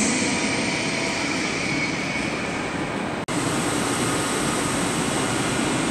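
Steady rushing hum of an ICE 3 high-speed train standing at the platform, under a large echoing station hall, broken once by a short gap about three seconds in.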